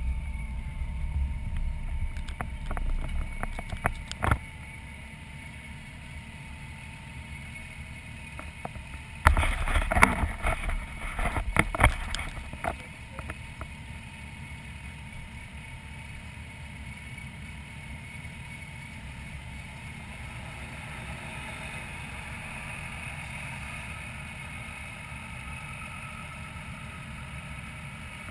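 Motorcycle engine running at low speed in slow traffic, picked up by a camera mounted on the bike. A low rumble over the first few seconds settles into a steady, quieter hum. About nine seconds in come a few seconds of loud knocks and rattles.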